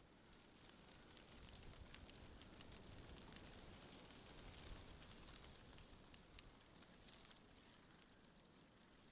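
Faint wind rustling through tree leaves, swelling gently and then easing, with many small dry ticks and crackles.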